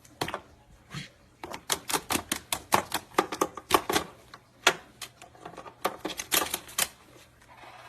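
A parrot's beak gnawing and biting at an electrical cord: a rapid, irregular run of sharp clicks, about five a second, starting about a second and a half in and lasting around five seconds.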